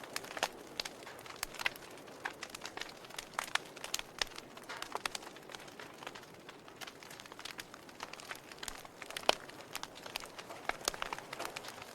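Wood fire crackling, with irregular sharp pops and snaps over a soft steady hiss of the flames.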